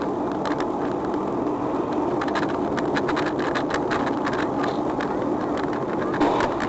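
Steady road and engine noise of a moving car, heard from inside, with scattered irregular clicks and knocks.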